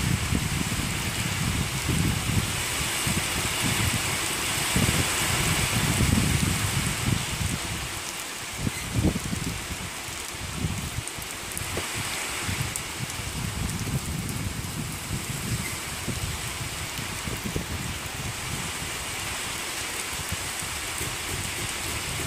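Steady rain falling on a wooden deck and lawn, with a low rumble that swells and fades.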